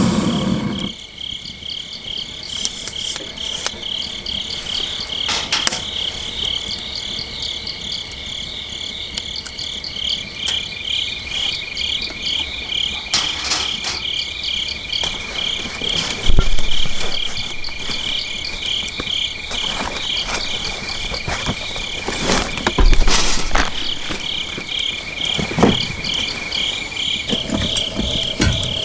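Crickets chirping in a steady, evenly pulsing trill. A few sharp knocks cut across it, the loudest about halfway through and again a few seconds later.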